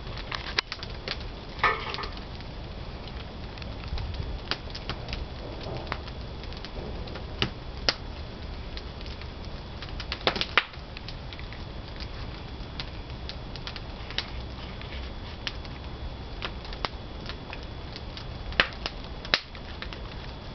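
Pine wood fire burning in a traditional wood-fired kiln: a steady low rumble with irregular sharp pops and crackles.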